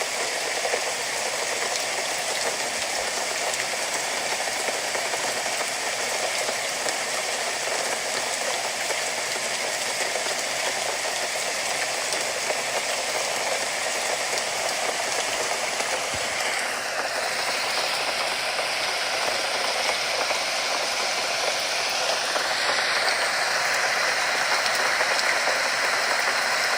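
Steady rain, a dense even hiss, growing slightly louder near the end.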